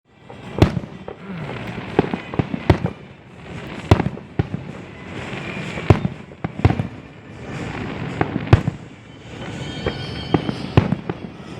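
Fireworks grand finale: aerial shells bursting in quick, irregular succession, a dozen or more sharp bangs over a continuous rumbling din, with the loudest bangs about half a second, four seconds and eight and a half seconds in.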